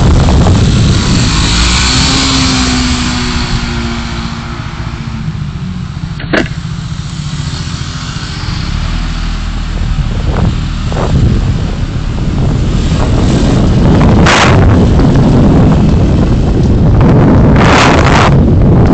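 Road and wind noise from a car on the move, picked up by a dashcam: a steady low rumble, with a sharp click about six seconds in and brief hissing swells near the end.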